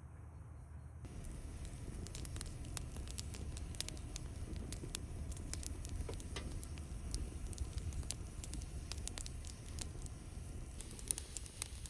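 Campfire crackling, with many sharp pops and snaps that set in about a second in.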